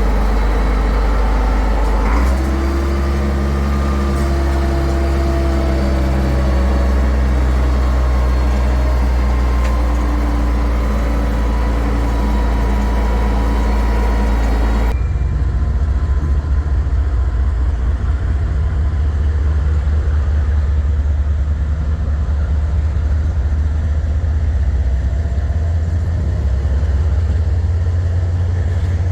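Heavy diesel engine running steadily with a loud low drone. About halfway through, the sound changes abruptly to a deeper, rougher rumble.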